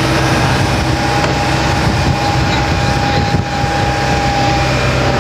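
Tour boat's engine running steadily underway: a continuous low hum with a steady whine above it.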